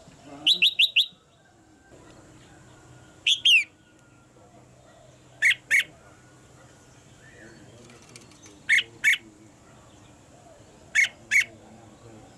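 Red-whiskered bulbul calling with short, sharp, high notes: a quick run of four just after the start, then a cluster of falling notes, then a pair of notes every two to three seconds.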